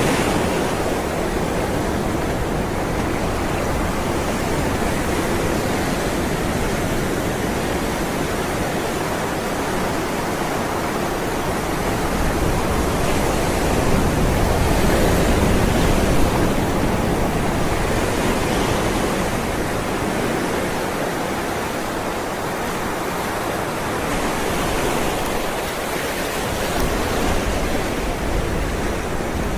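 Ocean surf rolling in: a continuous wash of breaking waves that swells slightly about halfway through and again near the end.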